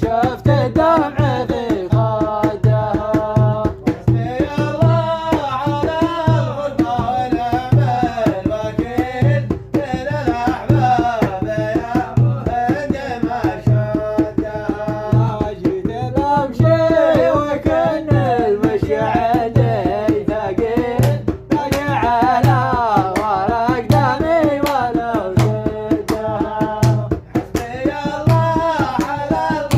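A song: a voice singing a wavering melody over a steady, evenly repeating low drum beat.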